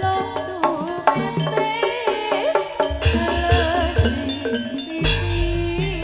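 Jaranan accompaniment music: hand drums beating a quick, busy rhythm under a wavering melody, with deep booming low notes coming in about three seconds in and again about five seconds in.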